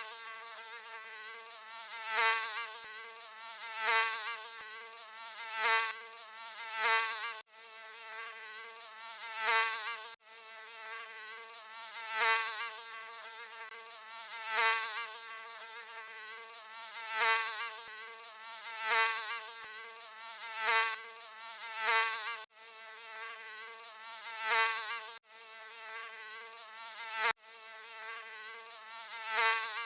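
Mosquito buzzing: a steady high whine with many overtones that swells louder about every two seconds, as if flying close past the ear, with a few short cuts where the loop is spliced.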